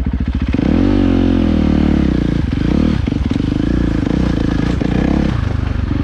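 450cc dirt bike engine revving up and down in bursts as the rider works it through a rough trail section, with knocks and rattles from the bike over the bumps.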